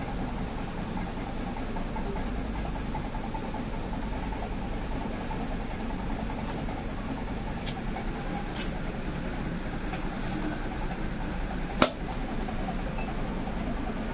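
A steady engine-like drone with a few sharp clicks, one much louder than the rest near the end.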